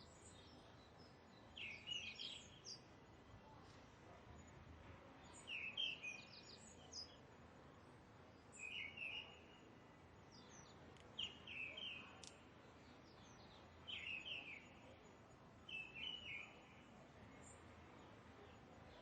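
A bird singing short chirping phrases, six of them, one every two to three seconds, over a faint steady background hiss.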